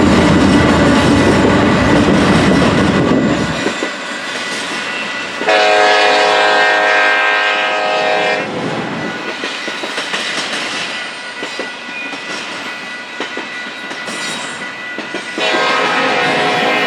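Freight train passing with a heavy locomotive rumble that stops abruptly after about three and a half seconds, then wheels clattering over the rails. A locomotive air horn sounds two long blasts, one of about three seconds and another starting near the end.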